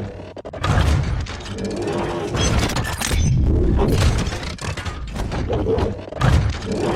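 Music mixed with repeated crashing, shattering impact sound effects.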